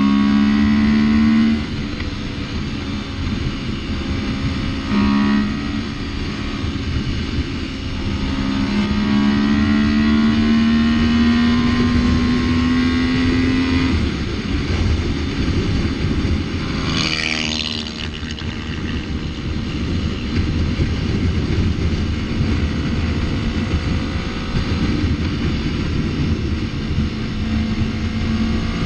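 Yamaha MT-03 motorcycle engine running under way with steady road and wind noise; its pitch climbs steadily for several seconds as it accelerates, then drops back. A short bright burst stands out about two-thirds of the way through.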